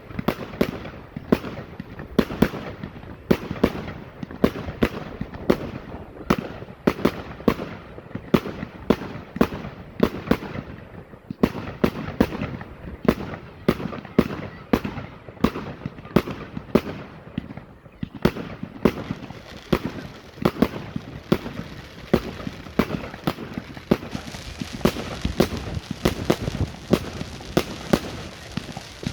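Category 4 display fireworks going off in a rapid, continuous barrage of sharp bangs, about two to three a second, with a hiss building over the last third.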